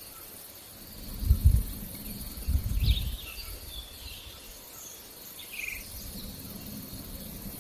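Crickets and other insects keep up a steady, high chirring, while a few birds give short chirps and one brief trill about halfway through. Two short low rumbles, about a second in and again near three seconds, are the loudest sounds.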